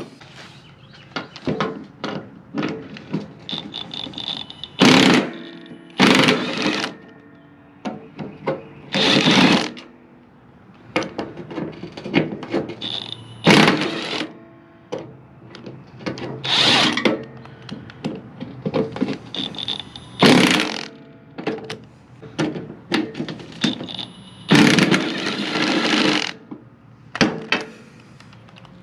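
Handheld power tool run in short bursts about seven times, the last one longer, with clinks and knocks of tools and metal parts between, while bolts on a riding mower deck are worked on.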